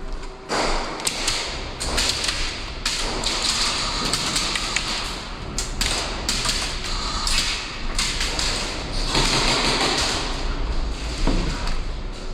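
Airsoft guns firing in rapid bursts: a dense run of taps and thuds that starts about half a second in and keeps going.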